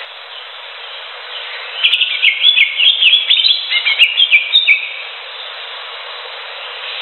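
Greater green leafbird (cucak hijau) singing a rapid burst of chirping, falling notes for about three seconds, starting about two seconds in, over a steady hiss.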